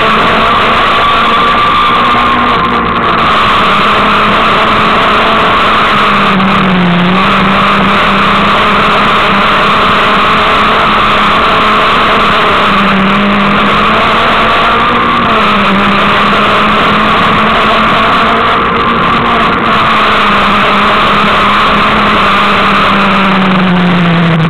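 Peugeot 306 S16 rally car's 2.0-litre 16-valve four-cylinder engine, heard from inside the car, running loudly at high revs on a special stage. The pitch holds fairly steady, dipping briefly a few times and sinking near the end.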